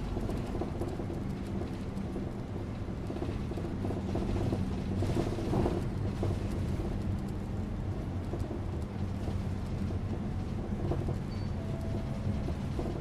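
Bus engine running with steady low road rumble, heard from inside the bus; the noise swells briefly about five seconds in.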